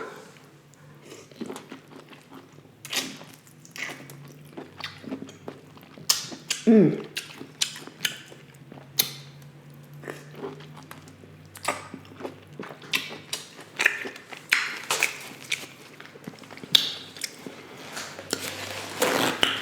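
Close-miked chewing of buttery lobster tail: irregular wet clicks and lip smacks throughout, with a short falling hum of "mm" about seven seconds in.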